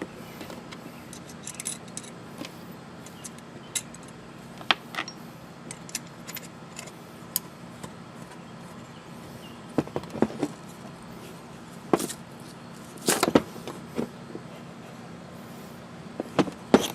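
Scattered metallic clicks, clinks and knocks from bolts, a clamp and a light bracket being handled and fitted together, with a few louder knocks in the second half.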